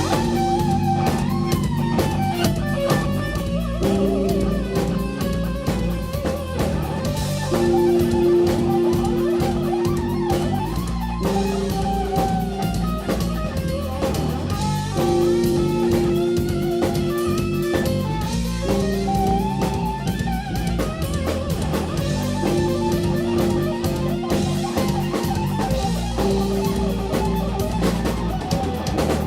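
Live instrumental rock-fusion band playing: a lead electric guitar melody with bent, gliding notes over held chords that change every three or four seconds, driven by a busy drum kit.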